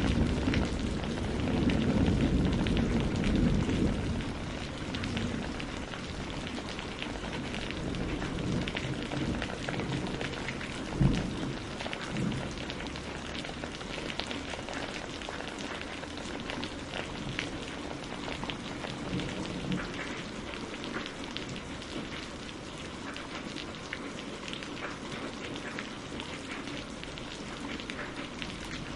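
Steady rain falling on a greenhouse roof, with many individual drops ticking. A low rumble of thunder fades away over the first few seconds, and a single brief low thump stands out about eleven seconds in.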